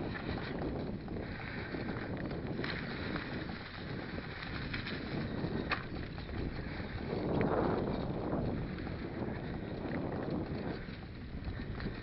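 Stels mountain bike ridden along a rough, overgrown forest path: steady wind on the microphone and tyre rumble, with scattered rattling clicks and a louder surge about seven seconds in.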